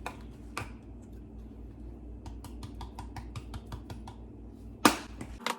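Chili flakes being shaken from a spice container: a run of quick, light clicks, about five a second, then one loud click near the end.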